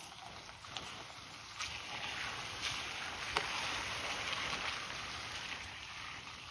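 Rushing, splashing water with scattered sharp splashes. It swells from about a second and a half in and eases off near the end.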